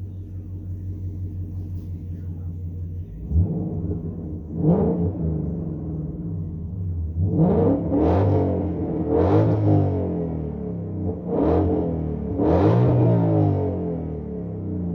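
2021 Mustang GT's 5.0-litre V8 idling through a Borla ATAK cat-back exhaust with active valves. About three seconds in it is revved in a series of quick throttle blips, each climbing sharply and dropping back to idle.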